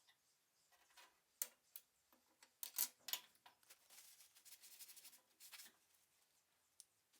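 Faint hand work with small tools: scattered sharp clicks and taps, with a run of scratchy scraping in the second half.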